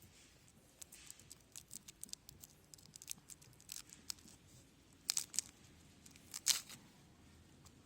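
Crinkling and rustling handling noise: a run of small crackles, then two louder rustles about five and six and a half seconds in.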